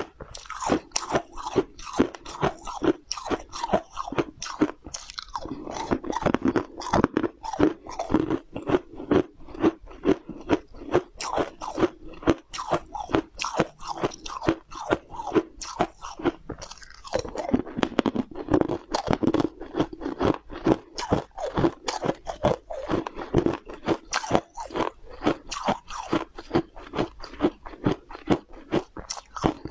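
Close-up crunching and chewing of small round food balls, one bitten after another: a steady run of sharp crunches, about two a second, with wet chewing between them.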